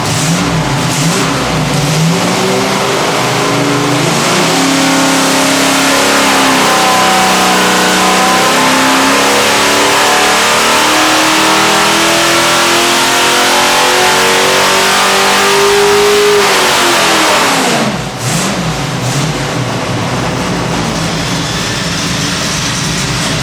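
Small-block Chevy 427 stroker V8 with AFR cylinder heads making a dyno pull: after a few seconds at lower revs, the engine note climbs steadily for about twelve seconds, then drops quickly as the throttle closes and falls back toward idle.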